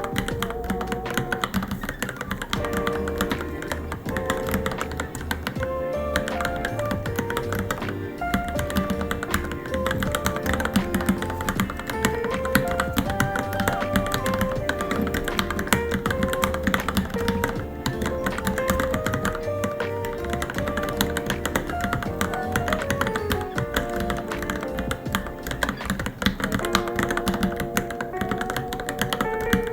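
Continuous typing on a Varmilo Minilo mechanical keyboard: a rapid, unbroken run of keystroke clicks. Background music with a held, wavering melody plays over it.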